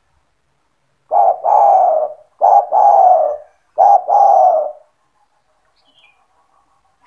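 Spotted dove (tekukur) cooing: three phrases, each a short note followed by a longer coo that dips slightly in pitch.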